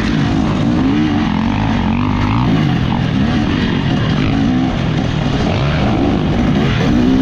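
Two-stroke dirt bike engine revving hard, its pitch climbing and dropping again and again, about once a second.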